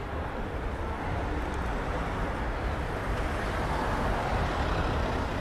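Street traffic noise: a steady hum of passing vehicles that swells about four seconds in, as of a vehicle going by.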